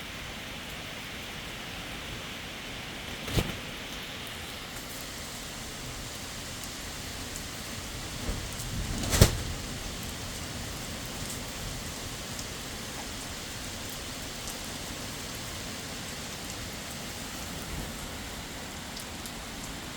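Heavy rain falling steadily, with two sharp cracks: a short one about three seconds in and a much louder one about nine seconds in.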